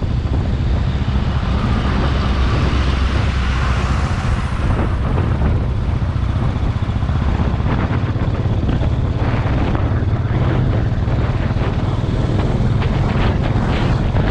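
Motorcycle engine running steadily while riding, a loud low drone with road and wind noise, and scattered short ticks and knocks in the second half.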